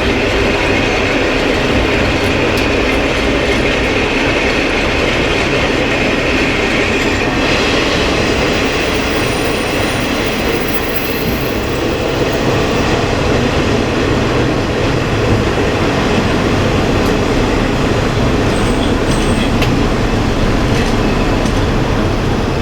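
KiHa 20 diesel railcar under way: a steady diesel engine drone mixed with the rumble of wheels on rail. A high wheel squeal runs through the first several seconds and then fades.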